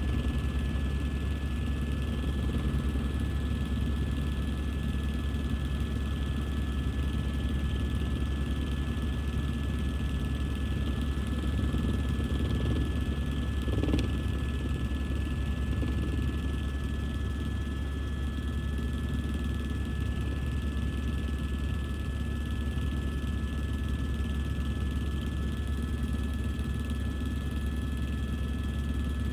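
Helicopter in flight: a steady, heavy low drone with a few constant whining tones above it, unchanging throughout, and a single short click about halfway through.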